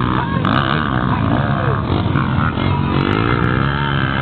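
Racing dirt-bike engines revving, their pitch rising and falling through the gears; one engine climbs steadily in pitch over the last second and a half.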